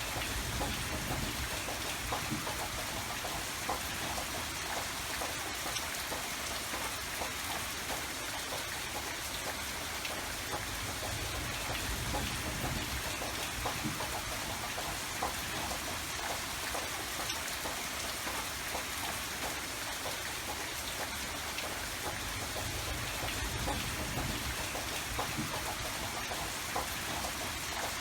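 Steady rain falling, with many small drops pattering on surfaces over a continuous hiss and a low rumble underneath.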